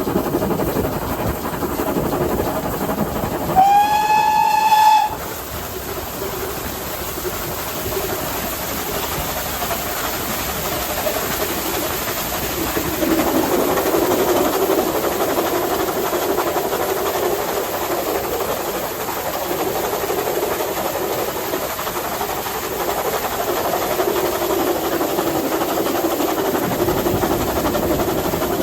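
GWR 5700-class pannier tank steam locomotive's whistle blowing once for about a second and a half, rising slightly in pitch, about three and a half seconds in, over the steady running noise of the moving locomotive and train.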